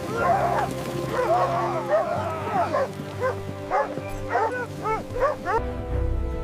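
A team of sled dogs barking and yelping excitedly, many short overlapping yelps, over steady background music; the barking stops near the end and the music carries on.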